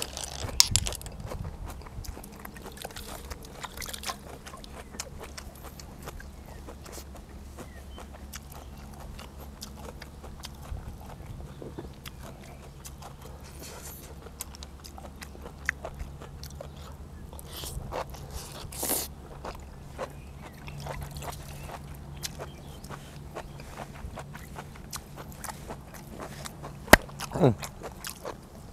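Close-miked chewing and biting of blanched blood cockles, wet mouth sounds with scattered sharp clicks, the sharpest about a second in and near the end.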